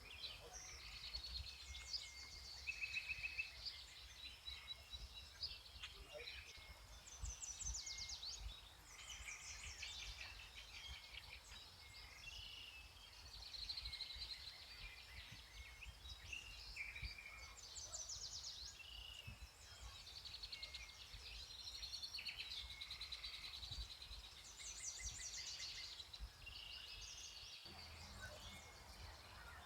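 Several songbirds singing at once in woodland, a steady chorus of overlapping chirps, trills and short warbled phrases, over a faint low rumble.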